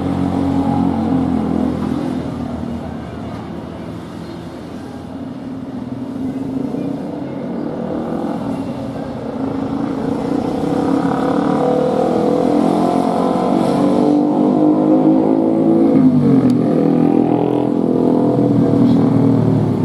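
Aircraft engines running loud as a plane moves past, a stack of steady engine tones that grow louder and then drop in pitch near the end.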